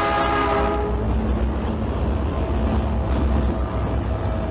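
Diesel locomotive horn sounding a steady chord of several tones that stops about a second in, followed by the steady low rumble of the train running.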